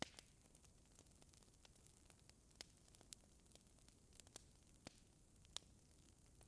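Faint crackling of a fireplace fire: irregular sharp pops and clicks over a steady soft hiss.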